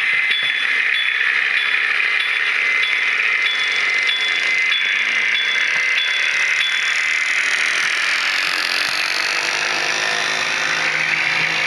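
HO-scale model railbus running, its Soundtraxx Tsunami 'Galloping Goose' decoder playing engine sound through a small speaker over the rattle of the model's motor and wheels. A short high tone repeats about every two-thirds of a second until about seven seconds in, and the engine note rises near the end.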